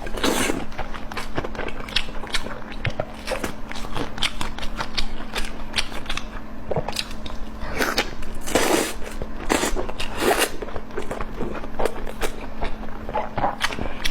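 Close-miked eating sounds: a person biting and chewing food in a dense run of short wet clicks and crunches, with a few louder, longer bursts about eight to ten seconds in.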